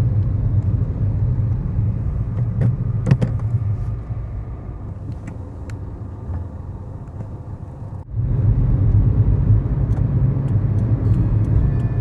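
2011 Kia Morning's 999 cc four-cylinder engine and road noise heard from inside the cabin, a steady low hum with a few light clicks about three seconds in. The sound drops quieter for a few seconds, then comes back abruptly at full level about eight seconds in.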